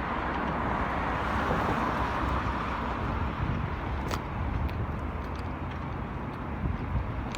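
Road traffic passing: a swell of car noise in the first few seconds over a steady low rumble, with a sharp click about four seconds in.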